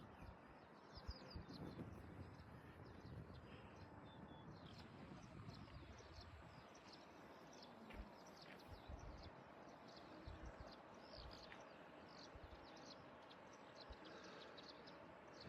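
Faint, frequent short bird chirps over a soft background hiss, with a few low thumps.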